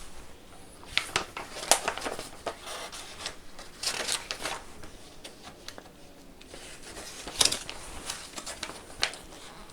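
Paper being handled: pages of a printed catalog rustling and crinkling, in several short bursts of crackling.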